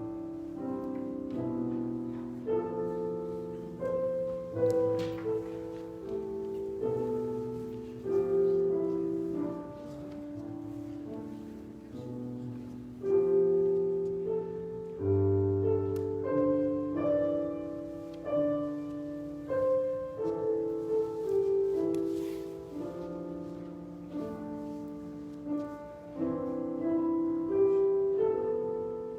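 Slow, quiet piano music: sustained chords that change every second or so, with single notes struck over them.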